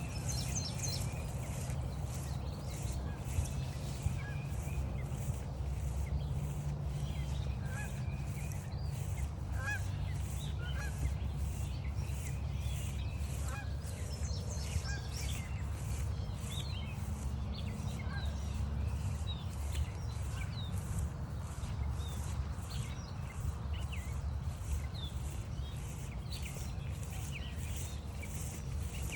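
Canada geese honking, mixed with many short songbird chirps over a steady low rumble.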